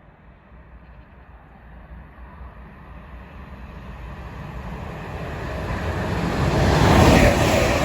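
A train approaching at speed, its rushing wheel-on-rail noise growing steadily louder until it reaches the station and passes close by about seven seconds in.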